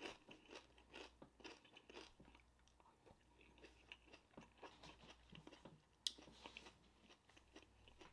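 Faint close-up chewing of crunchy food: soft irregular crunches and mouth noises, with one sharp click about six seconds in.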